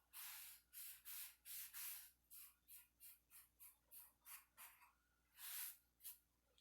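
Faint rhythmic wiping strokes, about two to three a second with one longer stroke near the end, as wood stain is rubbed by hand onto a cedar chest.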